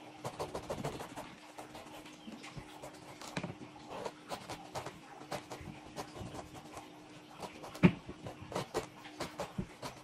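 A juicy pomelo being handled and eaten close to the microphone: a string of irregular wet clicks and smacks, with one sharp snap about eight seconds in. A faint steady hum runs underneath.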